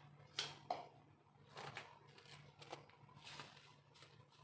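Faint light clicks and rustling from condiment containers being handled while seasonings go into a chicken marinade.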